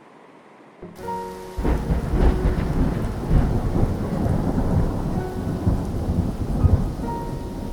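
Faint sea sound cuts off about a second in, replaced by loud heavy rain with rolling thunder. A few held musical notes sound over it, once near the start of the rain and again near the end.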